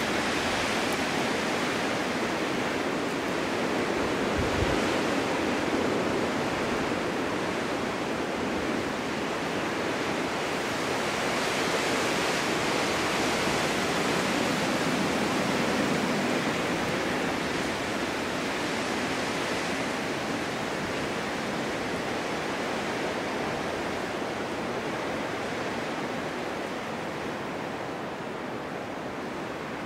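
Wind in a snowstorm blowing steadily through a snow-covered forest, a continuous rushing that swells in gusts and eases off toward the end.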